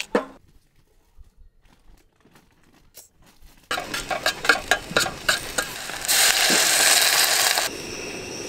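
A single scissor snip through green onion, then near quiet. About four seconds in, green onion and garlic start sizzling in oil in a stainless steel mess tin, with tongs clacking against the metal as they are stirred. About six seconds in, water poured into the hot tin gives a loud hiss for about a second and a half, which then settles to a softer steady sizzle.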